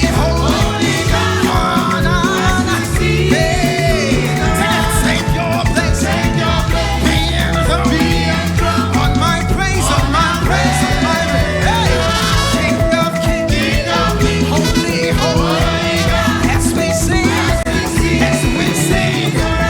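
Live gospel worship band playing an upbeat song, with singing over drums and bass.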